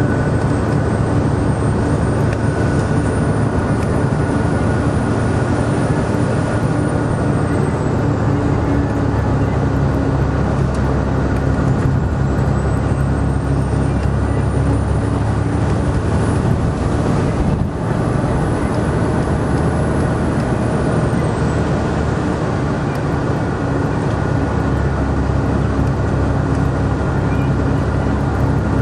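Tour bus driving at road speed, heard from inside the cabin: a steady engine drone with road noise. A faint high whine rises and then falls away twice.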